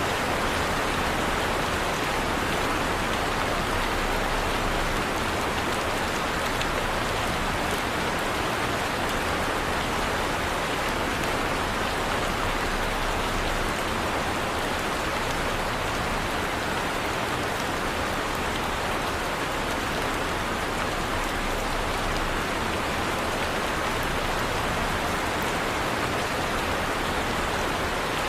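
Heavy rain falling steadily, a dense even hiss of rain on surfaces with scattered individual drop ticks.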